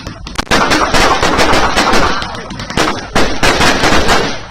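Fireworks and firecrackers going off in rapid, dense volleys of sharp cracks, with a short lull about two and a half seconds in.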